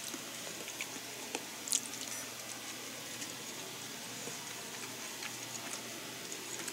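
A person chewing food, with scattered small clicks and one sharper click a little under two seconds in, over a steady hiss.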